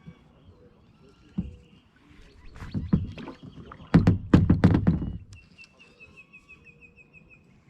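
Knocks and clatter of gear against a kayak hull: one knock, then a burst of heavy knocking in the middle. A fast, high ticking trill follows near the end.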